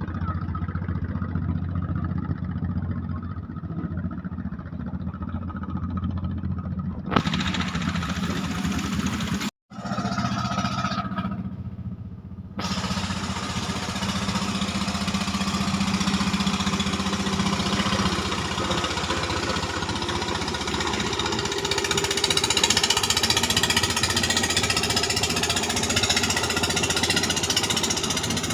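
Klotok river boat's engine running with a rapid, steady chugging knock. The sound drops out briefly about a third of the way in and comes back brighter and noisier.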